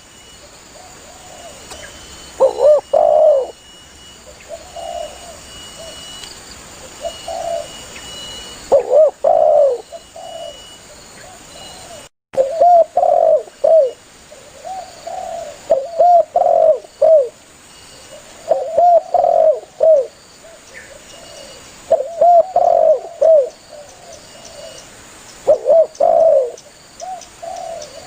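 Spotted dove (tekukur) cooing, repeating its phrased call every few seconds with louder and softer phrases, the call that draws other doves to it. The sound drops out for a moment about 12 seconds in, and a faint steady high hum runs behind.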